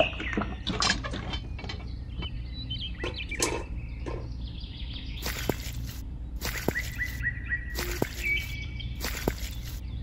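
Small birds chirping and twittering over a steady low hum. In the second half come short rasping pulses at a regular pace, about one a second.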